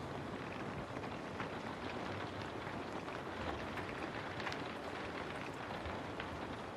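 Steady rain falling, an even hiss with many scattered sharp drop hits.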